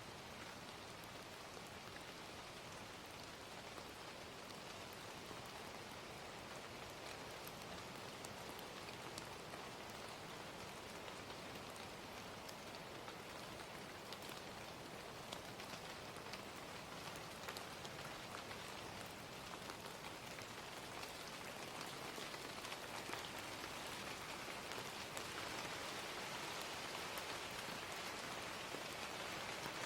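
Steady gentle rain with a scatter of small fire crackles, slightly louder in the last third.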